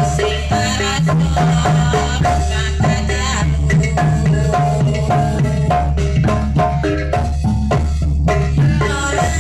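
Jaranan gamelan music played live and loud: mallet-struck keyed percussion rings a busy repeating melody over drums, with a constant low bass underneath.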